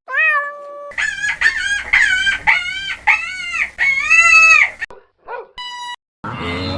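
Rooster crowing: a short rising call, then a string of rising-and-falling calls that grow longer, the last the longest. A short steady tone follows near the end.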